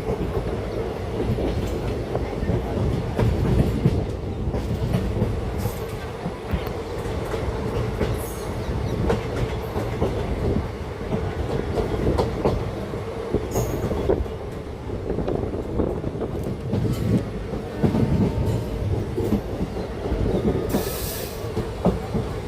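Passenger train running along the track, with a steady rumble and the clatter of wheels over the rails. Brief high hissing bursts come about 8, 13 and 21 seconds in.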